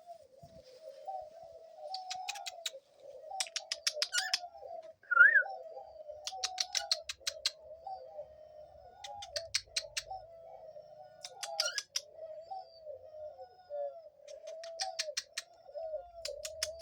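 Pet doves cooing continuously, overlaid by repeated bursts of rapid clicking from other pet birds, each burst a quick run of about eight to ten clicks, coming every couple of seconds. A single short rising chirp comes about five seconds in.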